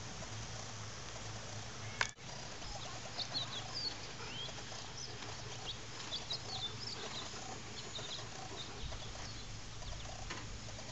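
Birds chirping and calling in short repeated notes over a low steady hum, with one sharp click about two seconds in.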